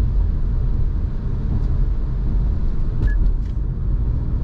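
Steady road and engine rumble inside a moving car's cabin, tyres running on a wet road, with a few faint ticks about three seconds in.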